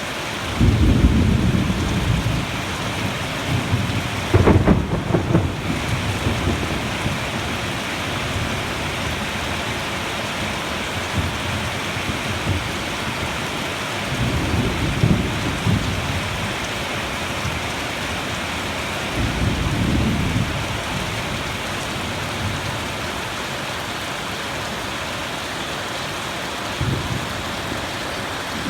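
Steady rain with thunder rumbling five times over it. The loudest is a sharper clap about four seconds in, followed by longer rolls around fifteen and twenty seconds, and a short rumble near the end.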